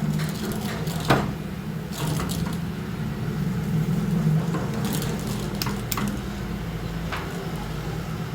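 Steady low machine hum with scattered sharp knocks and clinks of metal parts being handled; the loudest knock comes about a second in.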